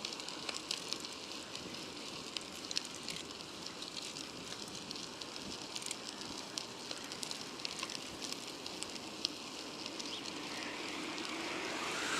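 Riding noise from a moving bicycle: a steady rush with a dense, irregular crackle, which swells near the end.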